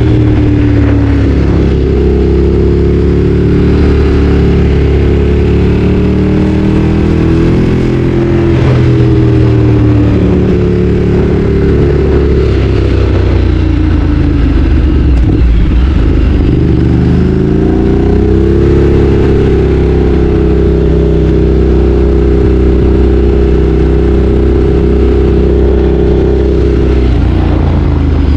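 Ducati Streetfighter 848's L-twin engine under way, its pitch rising and falling with the revs. It eases off to a low point about halfway through, picks up again and then holds a steady cruise for most of the rest.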